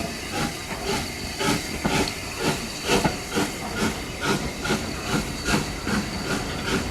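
Steam locomotive working, its exhaust chuffing in an even rhythm of about two beats a second over a steady hiss of steam.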